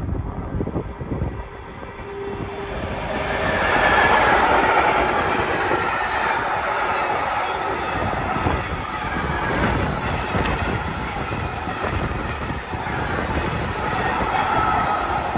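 Freight train of tank wagons running past on the rails, approaching over the first few seconds and loudest about four seconds in, then a steady rumble and clatter of wagons and wheels. A high squeal from the wheels comes and goes over it.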